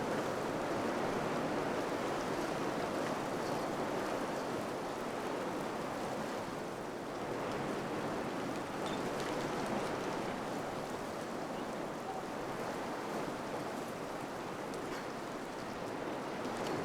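Wind blowing steadily in gusts, rising and easing slightly, with a few faint ticks near the start and end.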